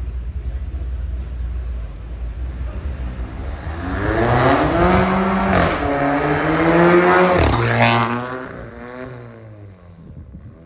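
Volkswagen Golf Mk8 1.5 eTSI turbo four-cylinder with an aftermarket downpipe and Varex valved exhaust accelerating hard: a low rumble, then the engine note climbs from about four seconds in, breaks briefly at a gearchange and climbs again, then cuts back sharply and fades as the throttle is released.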